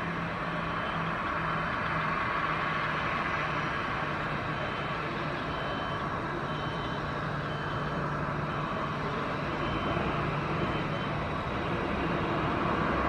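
Boeing 737-800's CFM56 turbofan engines running steadily, heard from a distance as an even rumble and hiss with a low hum, slowly growing louder.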